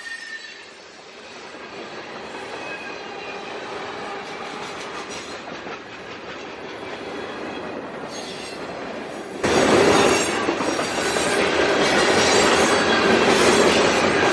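Freight train cars rolling past with a steady rumble and some faint wheel squeal. The sound jumps suddenly louder about two-thirds of the way through and stays loud.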